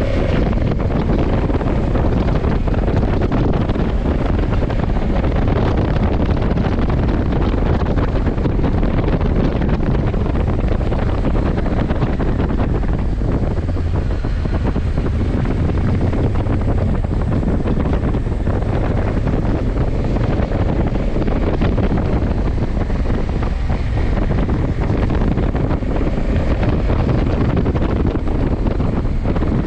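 Steady wind rush on the camera's microphone while riding a 2020 Honda CRF1100 Africa Twin at road speed, with the motorcycle's running underneath as an even low rumble.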